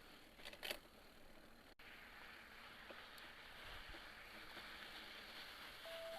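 Near silence: a faint steady hiss with a brief knock about half a second in. At the very end a short two-tone electronic beep from a phone begins.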